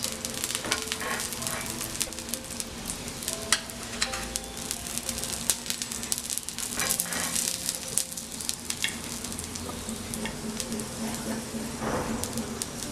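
Ghee sizzling on a hot tawa around the edges of an aloo paratha, a steady frying hiss with frequent sharp crackling pops.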